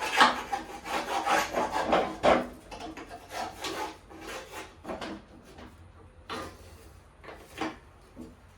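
Hand scraper scraping caked wet grass clumps off the underside of a John Deere Z335E zero-turn mower deck, in rough repeated strokes. The strokes come thick and fast for the first couple of seconds, then thin out to single strokes.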